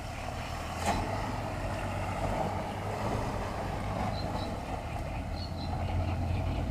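Engine of a UAZ 4x4 with a swapped-in Nissan Patrol engine running steadily as the vehicle floats in a deep ford, a low even hum. A short knock comes about a second in.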